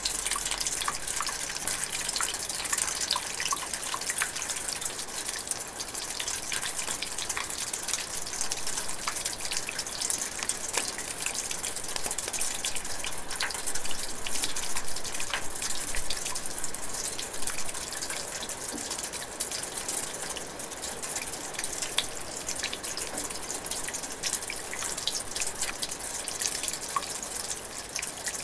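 Light rain drizzling steadily: an even hiss with many small, separate drips landing.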